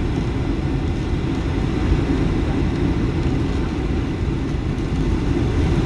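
Steady, loud cabin noise inside a Boeing 757-200 during the landing approach: the engines and rushing airflow make a constant low rumble.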